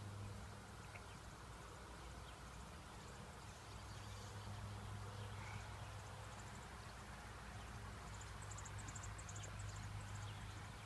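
Quiet outdoor background with a low steady hum, and a short run of faint, very high, rapid chirps near the end.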